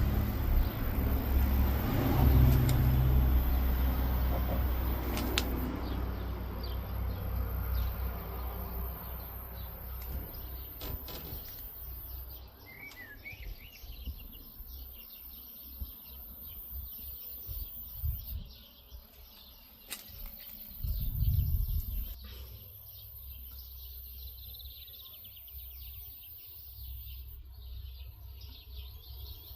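Wind buffeting the microphone in gusts that ease off after about ten seconds, with small birds chirping throughout and more clearly once the wind drops.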